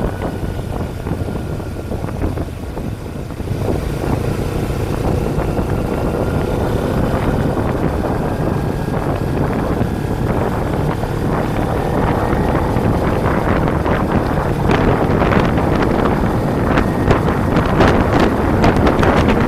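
Kawasaki Ninja 250's parallel-twin engine running at a steady cruise while riding, under heavy wind rushing over the microphone. The wind buffeting grows gustier over the last few seconds.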